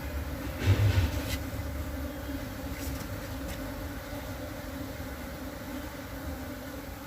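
Steady buzzing hum of Apis cerana honey bees from the opened hive, with a brief rustle and a couple of knocks about a second in.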